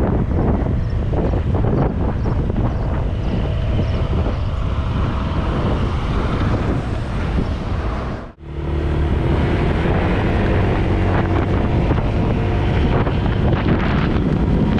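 Heavy wind buffeting the microphone over the steady hum of a 2018 Honda PCX150 scooter's single-cylinder engine. The sound cuts out abruptly for an instant about eight seconds in, then carries on.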